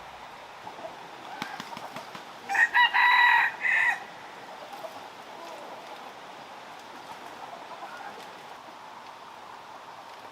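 A rooster crowing once, about two and a half seconds in, for roughly a second and a half, with a brief break before its last part.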